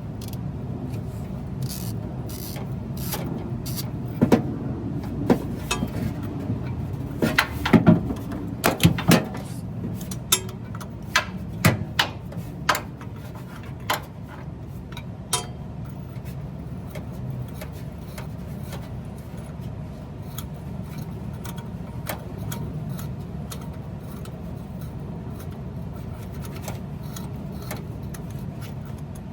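Hand tools working the rusty exhaust manifold bolts: scattered metallic clicks and clinks, thickest in the first half, over a steady low hum.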